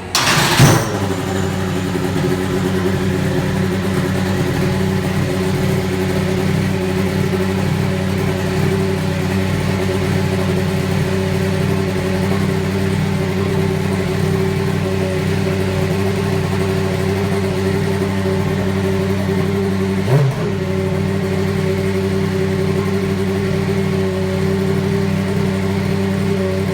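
Racing car engine firing up with a sudden loud burst, then idling steadily, with one short blip about 20 seconds in.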